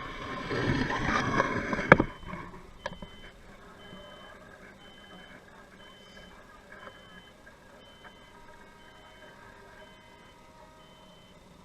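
A loud rush of noise for about two seconds, ending in a sharp knock, then a high electronic warning beep repeating steadily, a little over once a second.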